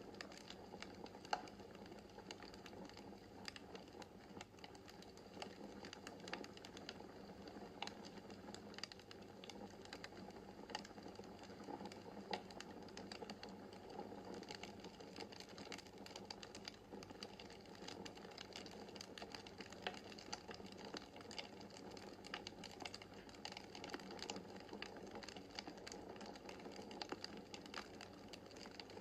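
Wood fire in a fireplace crackling: a steady stream of small irregular pops and ticks over a soft rush of flame, with a few sharper snaps standing out, one about a second in.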